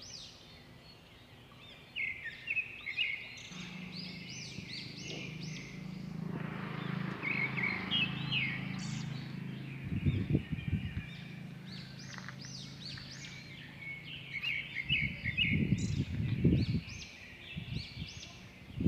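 Small birds chirping and singing over and over. A steady low hum sits underneath from about four seconds in until past the middle, and a few low rumbling bumps come near the middle and again near the end.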